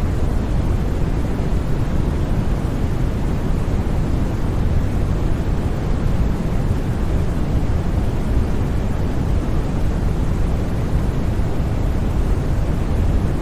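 Steady white noise for sleep: an even, unbroken rushing hiss, strongest and deepest at the low end, with no change in level.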